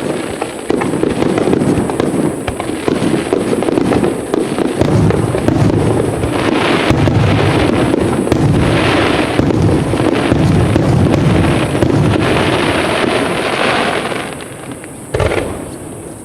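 Aerial fireworks going off in a dense barrage: rapid overlapping bangs with crackling shells. The barrage dies away near the end, with one last sharp bang.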